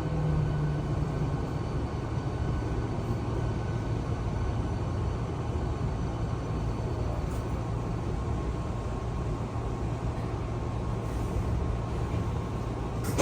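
Hankyu electric train rumbling steadily as it pulls slowly into the terminal platform, with a faint steady hum over the rumble.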